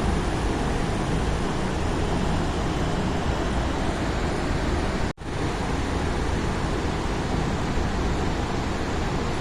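Waterfall with a steady, heavy rush of falling water, briefly cut off for an instant about five seconds in.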